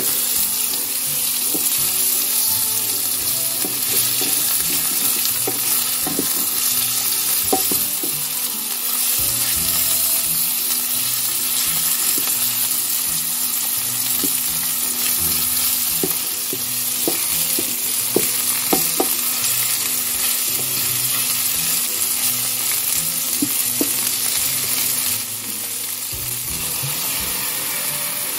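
Skin-on chicken breast pieces and onion sizzling in a frying pan, turned with a wooden utensil that clicks against the pan now and then. The sizzle eases a little a few seconds before the end.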